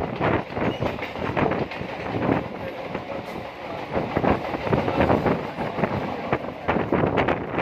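A train moving on the track, its wheels clattering over the rail joints in a dense run of irregular knocks.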